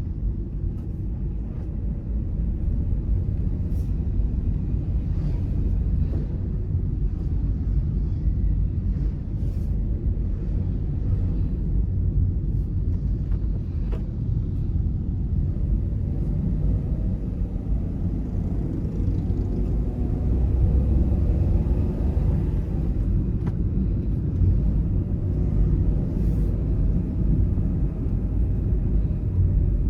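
Car driving along: a steady low rumble of engine and road noise, with a faint engine tone rising and falling around the middle and a few light ticks.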